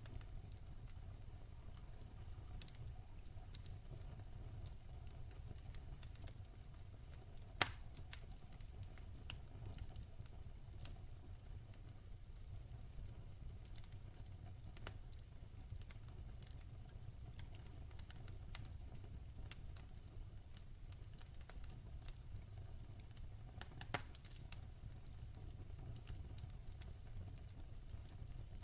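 Campfire crackling: scattered small pops and snaps over a steady low rumble, with two louder pops, one about a quarter of the way in and one late on.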